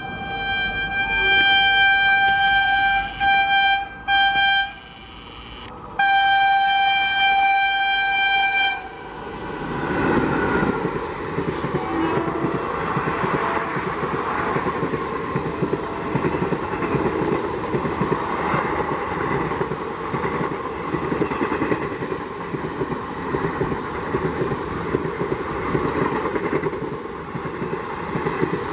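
WAP-4 electric locomotive's horn blowing in two long blasts, the first broken by two short gaps. About nine seconds in the horn stops and the train passes at speed, its coaches rumbling and clattering on the rails.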